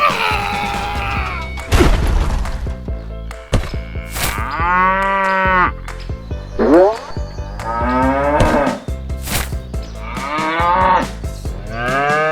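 Cows mooing: a series of long calls, about five or six, one after another, with a thud about two seconds in.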